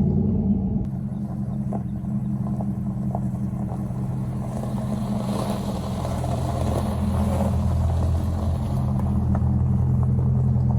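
C5 Corvette V8 engine running steadily with a low rumble; its low tone shifts slightly near the end.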